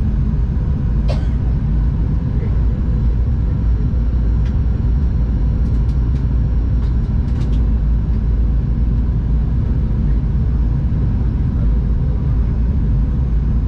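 Steady cabin noise inside a Boeing 737-800 airliner in flight: the even rumble of engines and rushing air, heaviest at the low end, with a faint steady hum and a few light clicks in the middle stretch.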